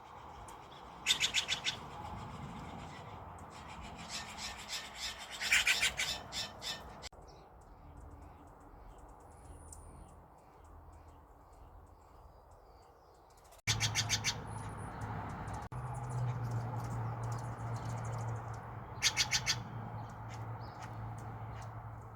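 Steller's jays calling in short bursts of quick, harsh, repeated notes, about four bursts in all. A low steady hum starts about halfway through.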